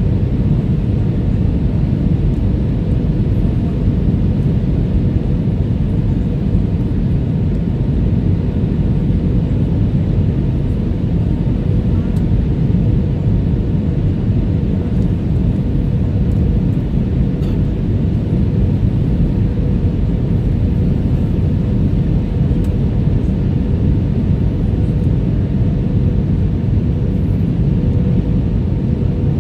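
Airbus A320 cabin noise in flight: a steady, unbroken rumble of engines and airflow, with a faint steady hum running through it.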